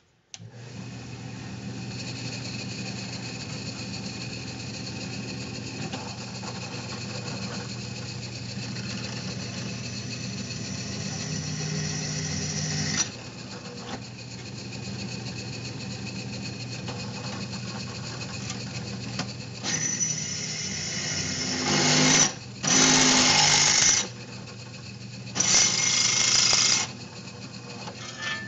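Power drill drilling drain holes through a sheet-steel patch panel: a steady motor sound throughout, with two louder, brighter bursts of about two seconds each near the end.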